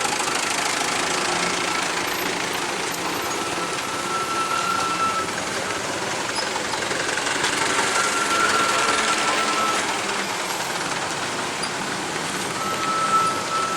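Heavy vehicle engine running steadily, with a faint high whine that comes and goes three times.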